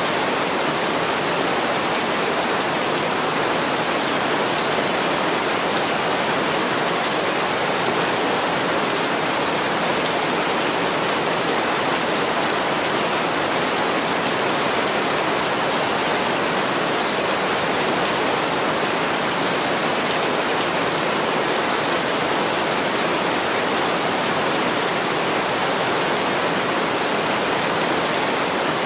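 Heavy rain falling steadily on a window, a dense, even hiss with no let-up.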